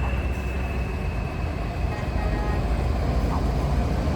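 Heavy truck engines running with a steady low rumble.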